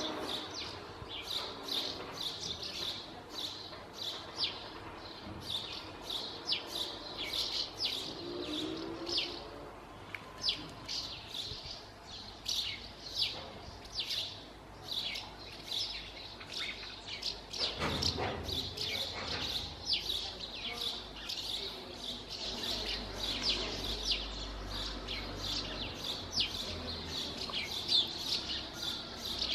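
Common house martins calling: a continuous stream of short, high twittering chirps, several a second. A brief low noise passes about 18 seconds in.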